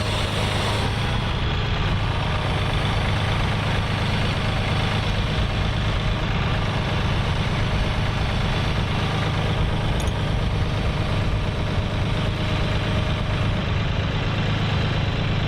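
Tractor engine running steadily at a constant pitch and level.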